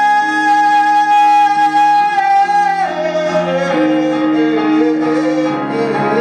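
Song with piano accompaniment: a singer holds one long high note for about three seconds, then drops into a lower, wavering melodic line over sustained piano chords.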